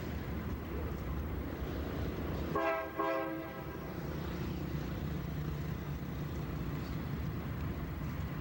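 Diesel freight locomotive running with a steady low rumble, sounding two short blasts of its horn about three seconds in.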